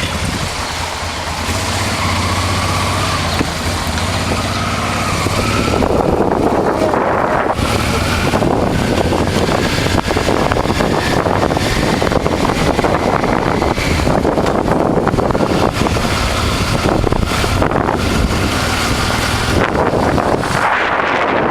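Honda Transalp's V-twin engine running steadily while riding, with wind rushing over the microphone, the wind noise growing heavier about six seconds in.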